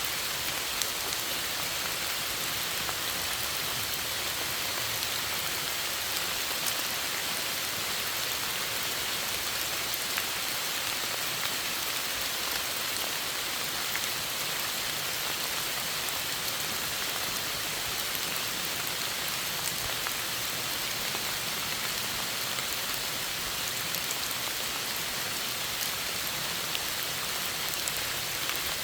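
Steady rainfall, an even hiss with scattered small drop ticks.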